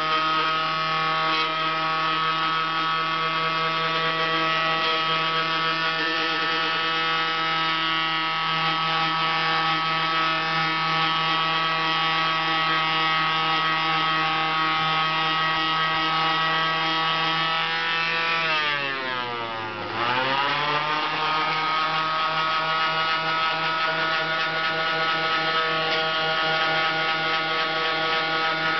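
Electric orbital sander fitted with coarse 50-grit paper running steadily while removing bulk material, with a steady motor hum under the rasp of the paper. About 19 seconds in its pitch sags sharply and then climbs back to speed.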